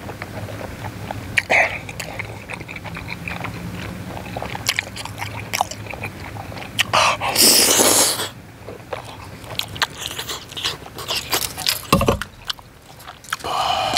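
Close-miked eating of chewy tteokbokki rice cakes in thick sauce: wet chewing, mouth clicks and smacks, with a loud breathy rush about seven seconds in.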